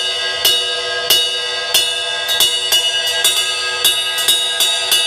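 Bell of a Zildjian ride cymbal struck repeatedly with 5B wooden drumsticks, slowly at first and then faster, each hit ringing on into the next.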